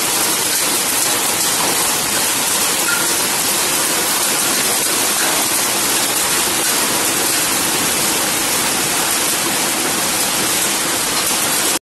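Heavy rain and hail of a hailstorm coming down hard, a dense, steady hiss with no letup.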